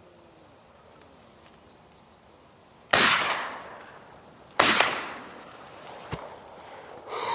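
Two shotgun shots about a second and a half apart, each sharp report fading out over about a second.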